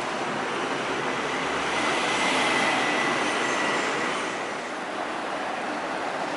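Highway traffic: steady tyre and engine noise that swells as a heavy vehicle passes about two seconds in, with a thin high whine at its loudest, then eases off.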